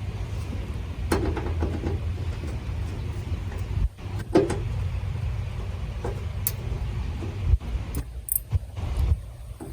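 Metal tools and fasteners clinking and rattling now and then as bolts are taken out of a pickup's inner fender liner, over a steady low rumble.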